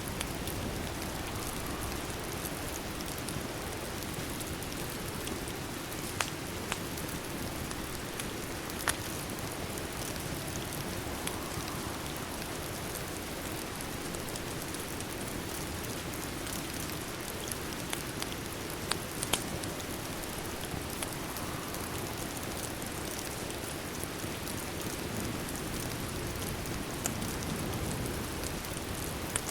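Steady rain with a handful of scattered sharp crackles from a fireplace.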